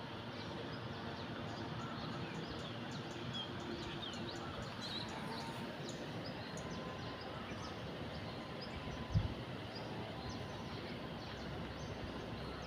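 Steady outdoor background noise with small birds chirping here and there, and a single brief low thump about nine seconds in.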